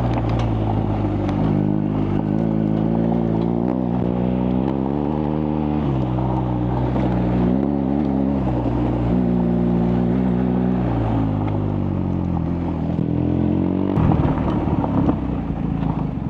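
BMW R1250GS boxer-twin engine running while riding, its pitch rising and falling repeatedly with throttle and gear changes. About three quarters of the way in the steady engine note gives way to a louder, rougher rumble.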